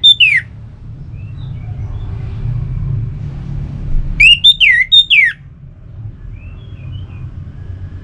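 Orange-headed thrush singing: the tail of a phrase at the start, then about four seconds in a loud phrase of quick rising and falling whistles, with faint short notes between phrases. A steady low rumble runs underneath.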